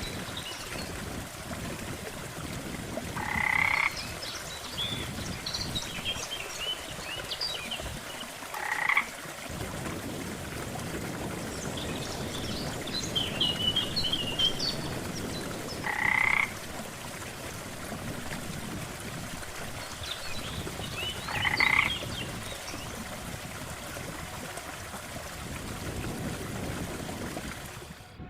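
Frogs croaking by a lake: four loud croaks of about half a second each, roughly every five to six seconds, with faint high chirps between them over a steady background hiss.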